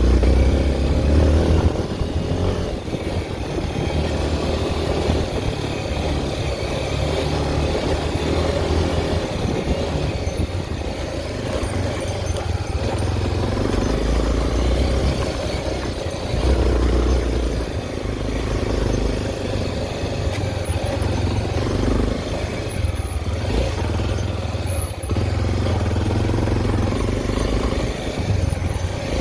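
Honda XR 250 Tornado's single-cylinder four-stroke engine running as the motorcycle is ridden, its low rumble rising and easing steadily.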